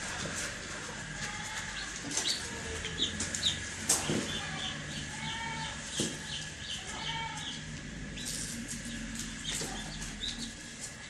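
Baby chicks cheeping in many short high peeps, mixed with rustling, scratching and a few sharper clicks, possibly from wings flapping or feet in the bedding.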